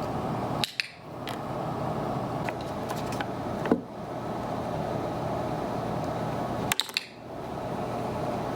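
Steady indoor background noise, like a running fan, with sharp clicks about a second in and again near the end, and a brief rising squeak just before the middle.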